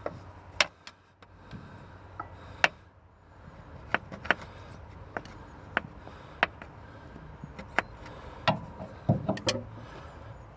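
Metal hand tool scraping and tapping at a gasket mating surface on an old excavator engine: irregular sharp clicks and ticks, about a dozen, with a small cluster near the end.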